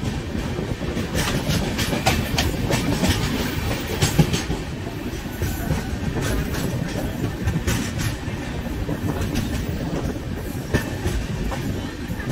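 Express passenger train rolling slowly into a station, heard from an open coach doorway: a steady rumble of the coaches with wheels clicking over rail joints. The clicks come thick in the first few seconds and thin out afterwards.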